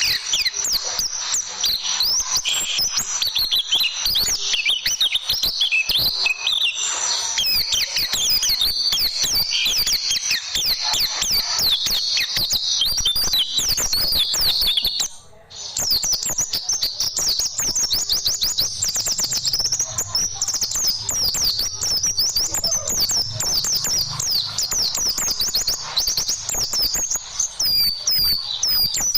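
White-eye (pleci) song: a dense run of fast, high chirps and trills that breaks off briefly about halfway through.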